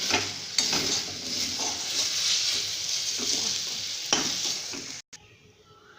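Instant Maggi noodles, cooked down nearly dry with sauce, sizzling in a pan while being stirred, with a few sharp scrapes and knocks of the spatula. The sound cuts off suddenly about five seconds in.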